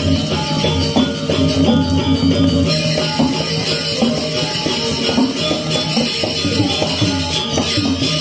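Balinese gamelan playing: metal keyed instruments ringing in held, overlapping tones over a dense, steady rhythm with jangling percussion.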